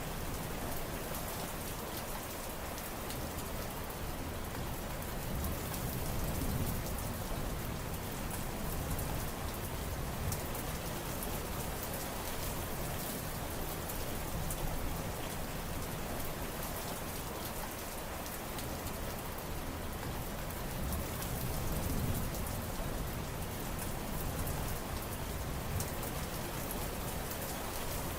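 Steady rain falling, an even hiss with many single drop hits ticking through it, and two slight low swells in the rush.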